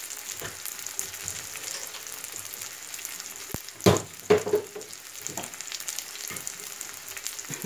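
Sesame-crusted tuna steak searing in a frying pan, sizzling steadily with fine crackles, and two brief louder sounds a little over halfway through.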